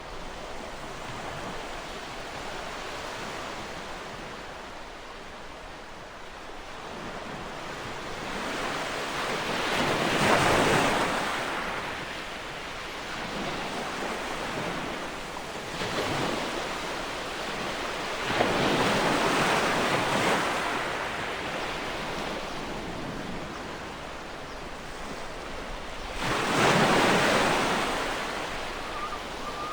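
Ocean waves breaking and washing up on a shore, four or so louder surges swelling and fading over a steady background of surf.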